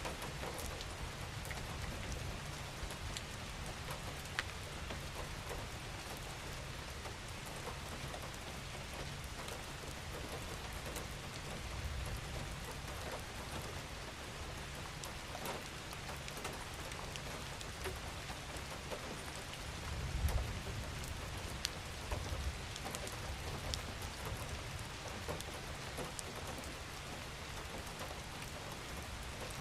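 Steady gentle rain falling on a surface, with individual drops pattering throughout and a low rumble swelling briefly about twelve and twenty seconds in.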